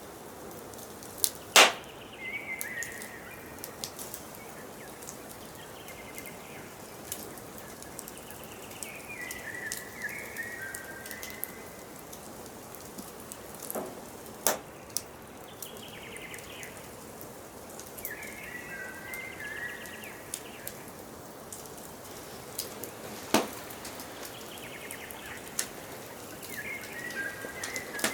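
Wood fire crackling steadily with sharp pops, the loudest about a second and a half in and two more later on. Behind it a songbird repeats a short phrase of several stepped notes about every eight or nine seconds.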